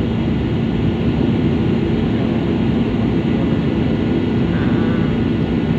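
Steady engine and airflow noise inside an airliner cabin as the plane taxis after landing, with a constant low hum.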